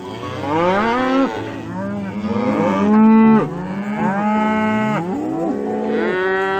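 Cattle mooing: a run of long calls, several overlapping, each rising and then falling in pitch.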